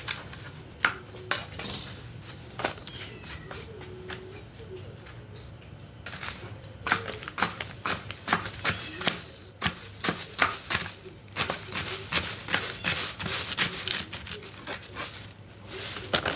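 Knife chopping celery on a cutting board: a run of sharp, irregular taps, sparse at first and quicker and denser from about six seconds in.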